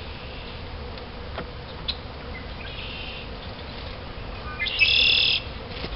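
A songbird singing outdoors: a short, high buzzy phrase about halfway through, then a louder one near the end, led in by a few quick rising notes. Under it runs a faint, steady hum of honey bees flying around the hive.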